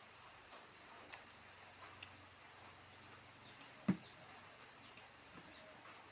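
Mostly quiet, with a sharp click about a second in, a lighter click near two seconds, and a dull knock near four seconds, the loudest sound. Faint, short, high bird chirps falling in pitch sound in the background in the second half.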